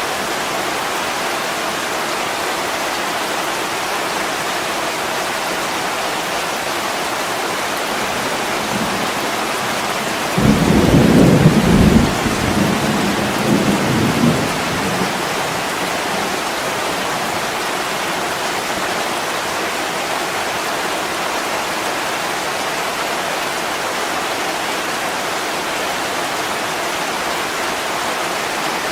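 Heavy rain falling steadily on a window pane. About ten seconds in, a low rumble of thunder rolls for around four seconds and is the loudest sound.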